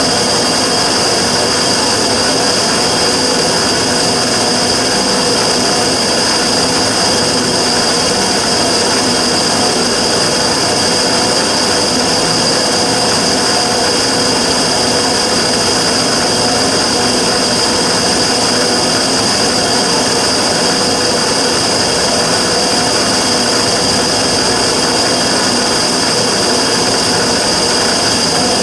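Immersion tube burner firing steadily: a continuous roar with a high, steady whistling tone on top, the abnormal noise the burner is making.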